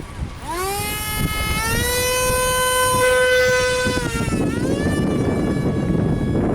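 Tiny 30 mm six-blade electric ducted fan spooling up to a high steady whine, dipping briefly about four seconds in and climbing again as the throttle is worked. Strong wind rumbles on the microphone underneath.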